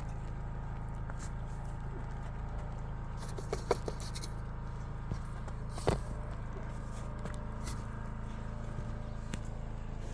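An engine running steadily at a constant speed, with a few sharp knocks about three and a half seconds in and again near six seconds.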